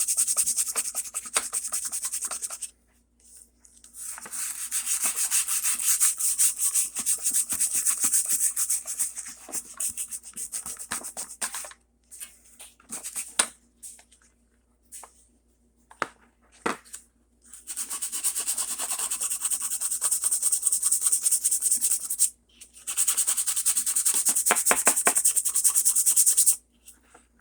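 Sandpaper rubbed by hand over hardened Bondo glazing putty on a model's roof: four bouts of rapid back-and-forth strokes, separated by short pauses with a few light clicks.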